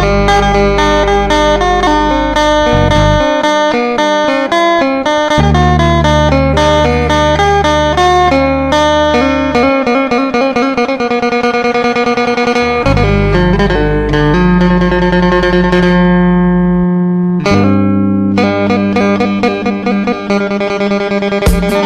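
Phin, the Isan Thai plucked lute, playing a quick run of plucked notes over low held bass notes, with a brief break about seventeen seconds in.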